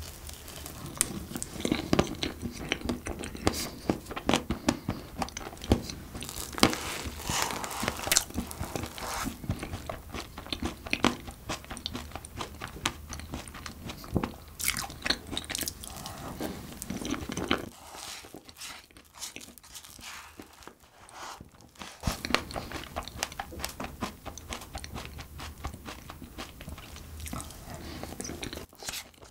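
Close-miked chewing of soft cream-filled cupcake, eaten in bites from the fingers and from a wooden spoon, with many sharp wet mouth clicks and smacks. The chewing pauses for a few seconds about two-thirds of the way through.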